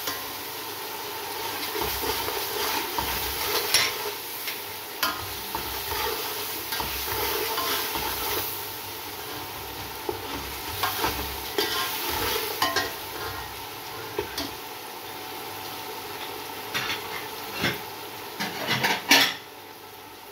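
Onion-tomato masala sizzling in oil in an aluminium pot while a slotted metal spatula stirs and scrapes it, with knocks of the spatula against the pot now and then and a few sharper ones near the end. The masala is being fried down (bhuna) before the lentils go in.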